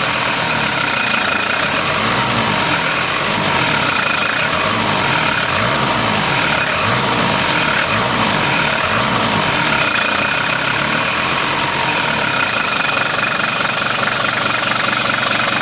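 Mercedes-Benz W123 300D's five-cylinder diesel engine running steadily, heard from outside the car. A knocking in the engine can only barely be made out over the running.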